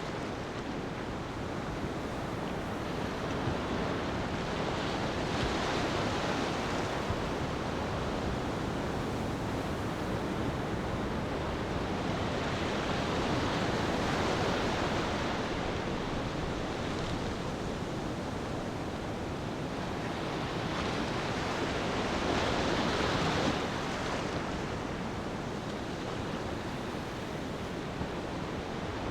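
Ocean waves breaking and washing on a beach: a steady surf hiss that swells and eases in slow surges about every eight to nine seconds.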